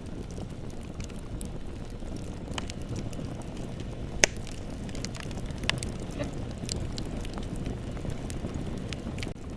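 Bonfire burning: a steady low rush of flames with scattered sharp crackles and pops from the burning wood, the loudest pop about four seconds in.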